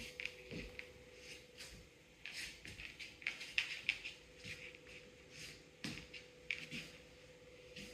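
A baby cockatoo moving about: faint, irregular scratches and taps, a few quick ones close together, over a steady low hum.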